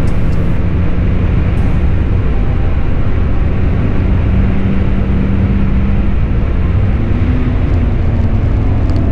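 Mazda MX-5 NB's four-cylinder engine pulling at full throttle at high speed, heard from inside the cabin under loud wind and road noise. The engine note holds steady and climbs a little near the end.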